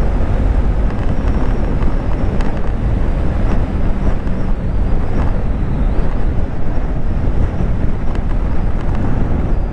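Motorcycle riding at steady road speed: engine and road noise under a heavy, constant wind rumble on the microphone.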